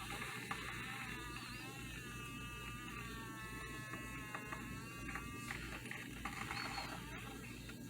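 MegaChef electric glass kettle heating water as it nears the boil, the water starting to bubble. A faint wavering high-pitched whine rises in about a second in and lasts about four seconds, over a steady low hum.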